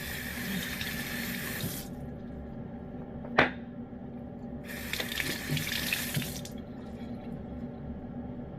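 Water running twice, like a tap turned on and off, each time for about two seconds, with one sharp click between.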